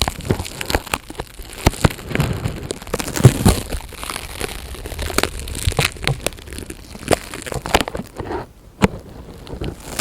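Close-miked ASMR handling sounds: irregular crinkles, crackles and taps, with a short lull a little after eight seconds in.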